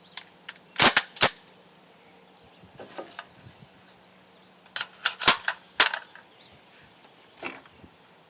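Head Down Defense HD15 AR-15-style rifle firing single shots: two loud shots about a second in, close together, and two more a little after five seconds, with a few fainter reports in between.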